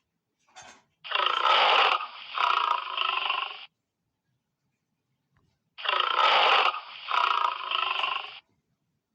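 An animal's harsh, rasping call given twice, each time in three parts lasting about two and a half seconds, with a pause between the two.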